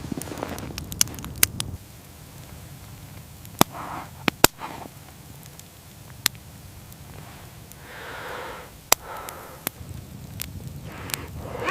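Wood fire crackling, with scattered single sharp pops a second or more apart. Rustling footsteps are heard in the first second and a half.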